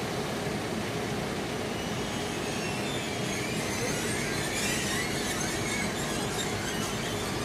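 Train wagons rolling slowly over the rails as a rail tunnel rescue train pulls away: a steady rumble, with faint wavering wheel squeals joining from about halfway through.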